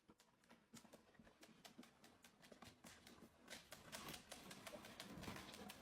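Near silence with faint scattered clicks and taps, growing more frequent and a little louder in the second half.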